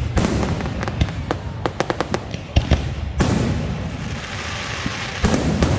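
Fireworks going off: a rapid run of sharp cracks and bangs, then a bigger burst about three seconds in that leaves a long crackling hiss, and another burst near the end.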